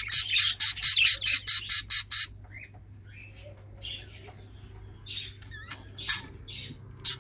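Pet birds calling: a fast run of harsh, high-pitched calls, about five a second, that stops about two seconds in, followed by quieter scattered chirps and a single click near the six-second mark.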